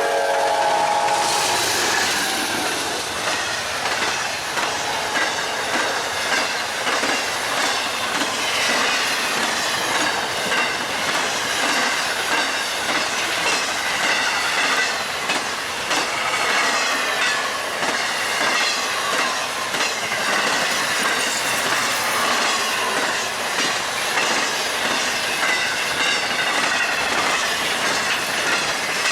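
BNSF freight train passing at speed: steady rolling noise with rapid clickety-clack of wheels over rail joints and a wavering high wheel squeal. The tail of a locomotive horn blast ends in the first second or two.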